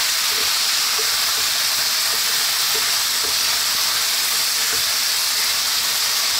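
Pork belly frying in oil and sauce in a nonstick wok: a steady sizzling hiss, with light scrapes and taps of a wooden spatula as it is stirred continuously.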